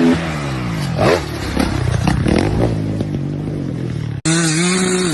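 Motocross dirt bike engines. One drops in pitch as it comes off the throttle, then revs up and down amid knocks and clatter. After an abrupt cut about four seconds in, another bike holds a steady high rev.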